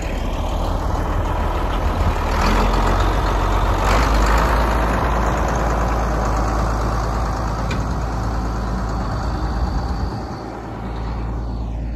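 Farm tractor engine running steadily, a loud low drone that dips briefly about ten seconds in.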